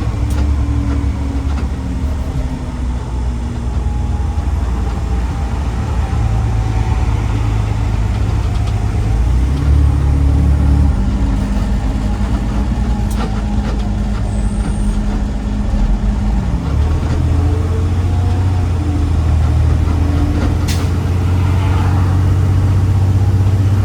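Garbage truck engine running steadily as the truck drives, a low heavy drone. Its pitch steps up about ten seconds in and drops back down about six seconds later as engine speed changes.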